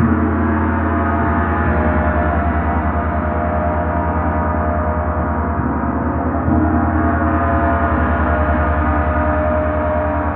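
Gong sounding in a continuous sustained wash of many overlapping ringing tones over a pulsing low hum. It swells again with a fresh stroke about six and a half seconds in.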